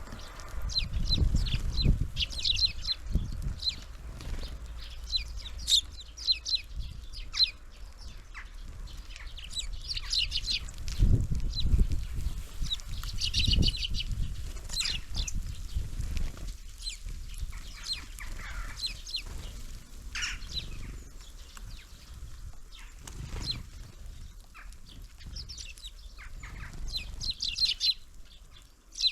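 Small songbirds at a winter feeder calling in clusters of short, high chirps throughout. Bursts of low rumbling noise come about a second in and again around eleven to fourteen seconds in.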